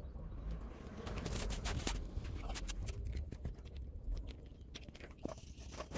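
A quick run of clicks, knocks and scrapes from parts and tools being handled during an oil-filter change, thickest in the middle, over a low background rumble.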